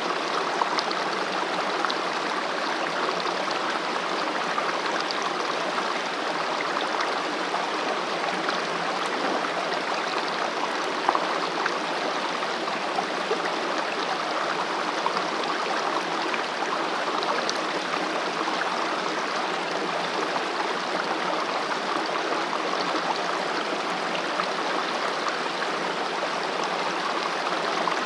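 Mountain stream flowing steadily over rocks, a continuous rushing and babbling of water with small splashes here and there.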